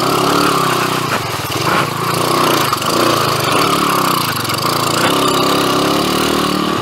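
2007 PitPro 140cc pit bike's single-cylinder four-stroke engine running, its revs rising and falling while riding through a river crossing, with water splashing.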